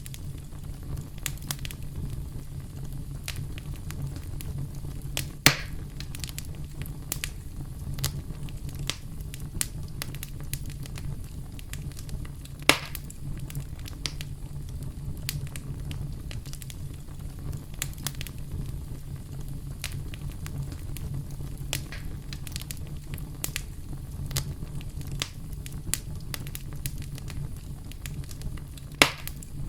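Crackling campfire: a steady low rumble of burning with frequent small crackles, and three louder sharp pops, about five seconds in, about thirteen seconds in, and near the end.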